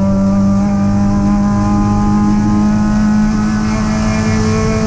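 Triumph TR7 race car's 16-valve Sprint four-cylinder engine heard from inside the cabin, running at steady revs with no gear changes.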